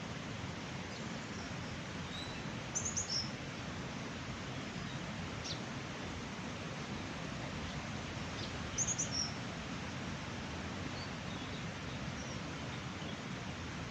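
Small birds chirping over a steady rushing background noise. Twice, about six seconds apart, a quick burst of three or four high chirps stands out, with a few fainter single chirps in between.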